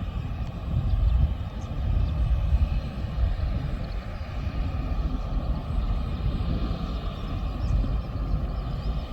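Airliner engines running at an airport, a steady low rumble with a faint high whine on top.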